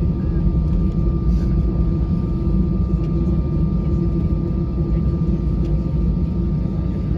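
Steady cabin noise inside an Airbus A320-214: a constant low rumble with a steady hum and a thin, high whine over it.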